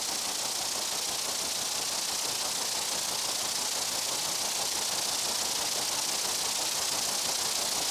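Steady, unbroken insect buzzing, a dense high hiss-like drone with no single calls standing out.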